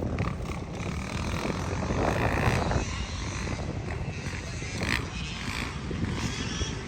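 Small dirt bike engine running.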